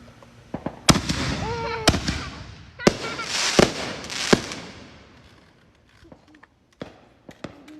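Aerial fireworks going off: five sharp bangs less than a second apart, with dense crackling between them that dies away about five seconds in, then a few scattered pops.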